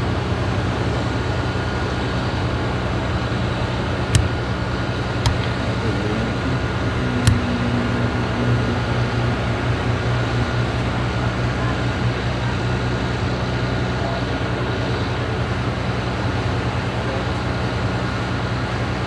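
Steady drone of a running engine with a low hum, typical of fire apparatus standing by at a vehicle fire, broken by three sharp pops about four, five and seven seconds in.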